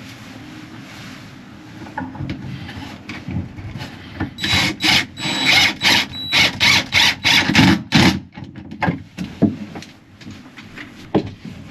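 A hand tool worked back and forth on wood in quick regular strokes, about three a second, for around four seconds, after a few light knocks.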